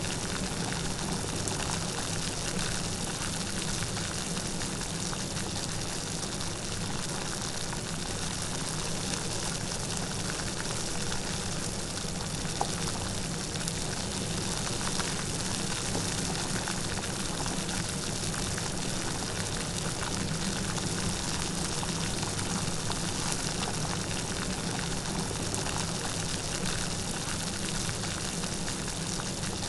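Steady light rain falling, an even hiss of many small drops with no thunder.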